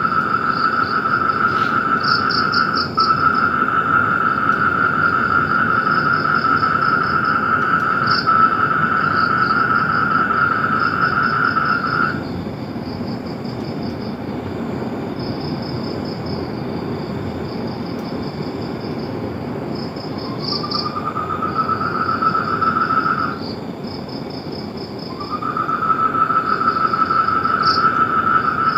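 Insect chorus: a steady high-pitched drone that stops about twelve seconds in, swells back with a rising pitch, stops again and returns near the end, over a continuous string of fast, rhythmic chirps.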